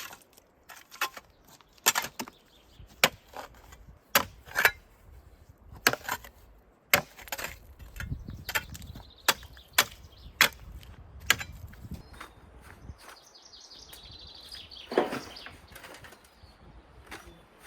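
Wood being chopped: sharp strikes at roughly one a second, thinning out in the last few seconds, with a faint high bird chirp near the end.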